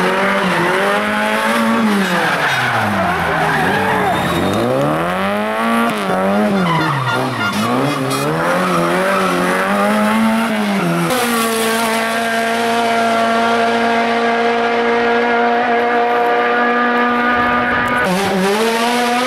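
Hill-climb race car engine revving hard, its pitch rising and falling over and over as the driver accelerates, changes gear and lifts. About eleven seconds in it switches abruptly to one steady high engine note held for several seconds, which changes again near the end.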